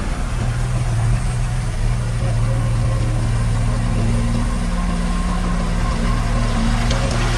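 Diesel engine of heavy earthmoving equipment running steadily at low revs, with an even low hum.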